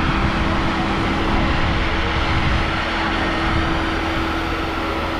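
Waste Pro garbage truck running steadily: a continuous engine drone with a constant whine held at one pitch.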